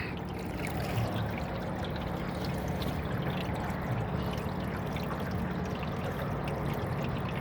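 Water trickling and lapping against a small aluminum boat: a steady, even wash with faint little ticks.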